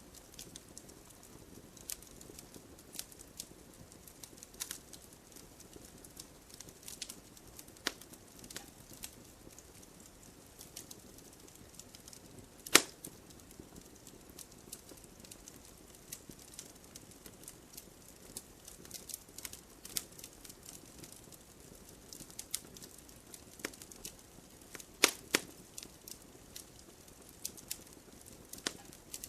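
Wood fire crackling in a fireplace: scattered small pops and ticks over a faint steady hiss, with a sharper, louder pop about halfway through and two more close together near the end.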